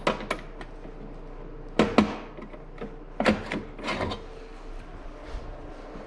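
Hand tools being handled: about half a dozen sharp clanks and knocks in irregular groups as a socket is fitted and tried on the axle nut.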